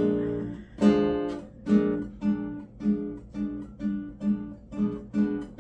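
Acoustic guitar strumming the same chord over and over, slowly at first and speeding up to about two strums a second.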